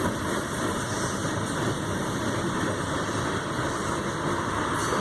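Norfolk Southern freight train going by: a steady rumble from its diesel locomotive engines.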